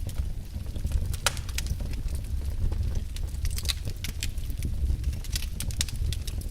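Wood fire in a fireplace crackling, with sharp irregular pops over a steady low rumble of the burning fire.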